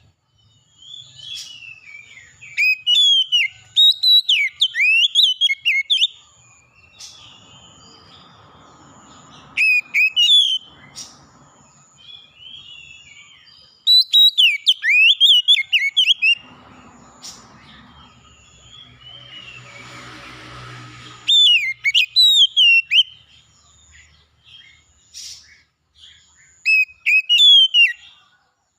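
Songbird singing in repeated bursts of sharp, sweeping whistled phrases, with a faint high pulsing tone behind it and two stretches of soft rushing noise around the middle.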